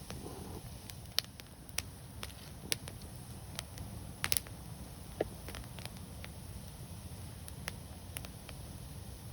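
Wood fire burning with irregular crackles and sharp pops over a steady low rumble of the flames; the loudest snaps come about a second, three seconds and four seconds in.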